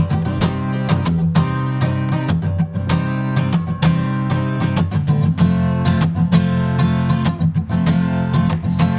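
Acoustic guitar strummed in a steady rhythm, playing an instrumental passage between sung lines of a song.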